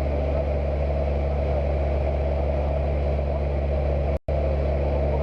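Cessna 172's piston engine and propeller drone steadily with an even low hum. The sound cuts out completely for a split second about four seconds in.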